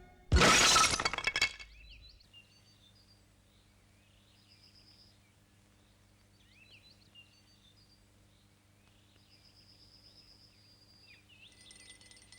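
A loud crash with a glassy clatter lasting about a second, then faint bird chirps over a low steady hum.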